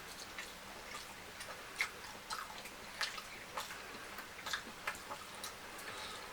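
Close-up wet eating sounds: irregular mouth smacks and clicks of chewing fried fish and fufu, a few of them sharper and louder.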